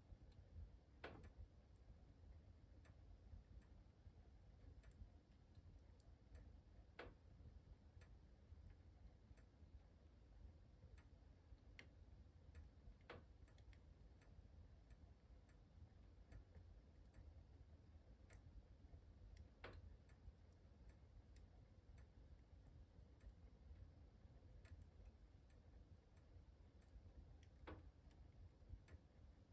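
Wood fire in a fireplace crackling faintly: irregular small ticks and pops, a handful of them sharper, over a low steady rumble.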